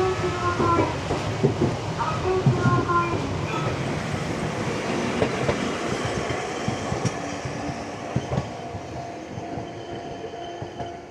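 Sangi Railway electric train running, heard from inside the car, with wheels clacking over rail joints and brief tones early on. The noise eases over the last few seconds as the train slows for the station.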